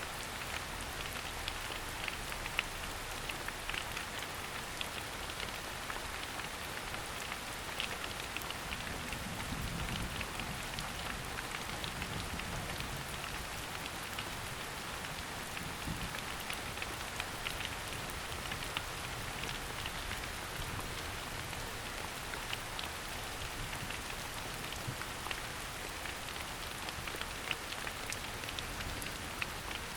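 Steady rain falling through a forest onto leaves, an even patter with many individual louder drops ticking through it.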